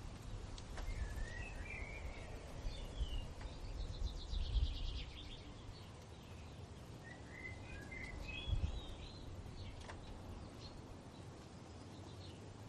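Songbirds singing: short warbled phrases twice and a rapid trill of repeated high notes, over a low rumble of wind that swells now and then.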